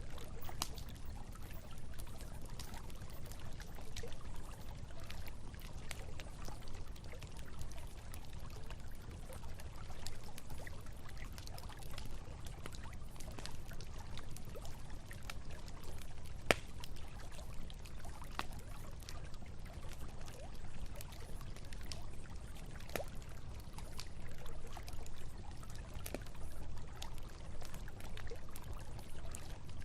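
Campfire crackling with scattered small pops, one sharper pop a little past halfway, over the steady flow of a river.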